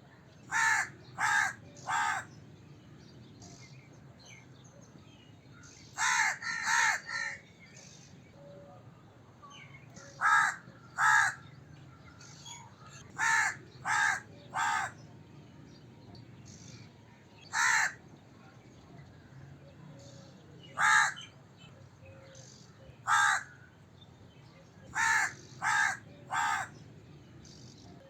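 A crow cawing: short, harsh caws, mostly in bursts of two or three a few seconds apart, with single caws in between, over a faint steady background noise.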